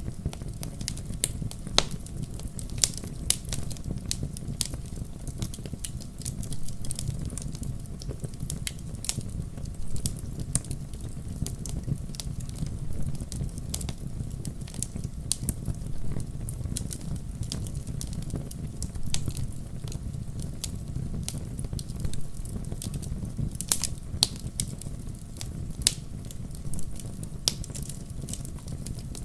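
Wood campfire crackling, with frequent sharp irregular pops and snaps over a low steady rumble of the burning fire.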